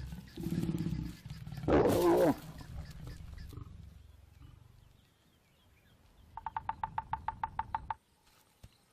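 Lions growling, rising to a loud snarl about two seconds in, then fading: the snarling typical of lion mating. Near the end comes a quick run of about a dozen short high notes, and the sound cuts off abruptly.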